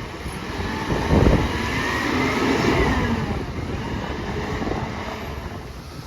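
Side-loader recycling truck running, with its engine surging about a second in and a faint whine rising and falling about two to three seconds in.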